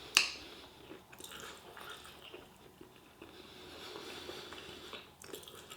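A person chewing food close to the microphone, with a sharp click or crunch right at the start followed by faint, scattered mouth and food noises.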